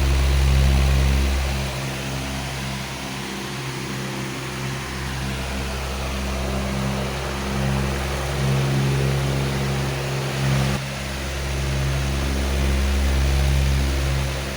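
Powerful fan running steadily: a rush of air over a low hum that swells and fades every few seconds.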